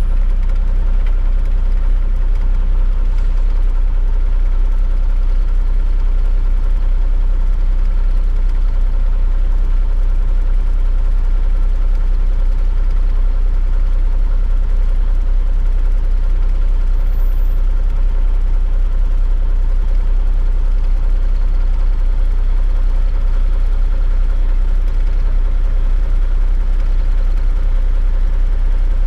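Heavy truck's diesel engine idling steadily, with a deep, even rumble that holds at the same pitch and never revs.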